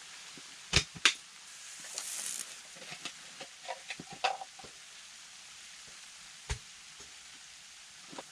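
A few sharp knocks and clatters: two loud knocks about a second in, a brief hiss, a run of small clicks and taps, and one more knock near the end.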